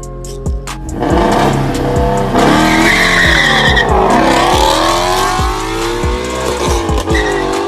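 Ford Shelby GT350's 5.2-litre flat-plane-crank V8, with a Corsa X-pipe and catless ARH longtube headers, revving hard: the pitch dips, then climbs steadily for several seconds, with a drum-beat music track underneath.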